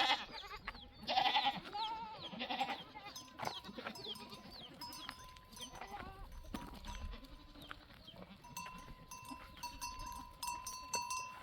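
Sheep or goats bleating loudly a few times in the first three seconds. After that come many short, high, falling chirps, and in the later part livestock bells ring steadily.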